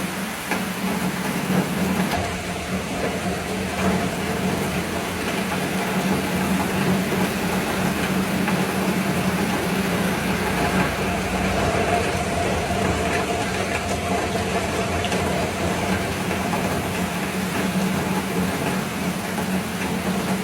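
A vehicle engine running with a steady low hum under a constant rushing noise. A faint higher tone joins it for a few seconds in the middle.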